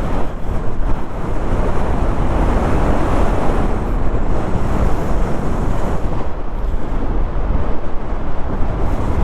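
Bajaj Pulsar NS200 motorcycle being ridden, engine and tyre noise mixed with wind buffeting the microphone as a steady rushing noise.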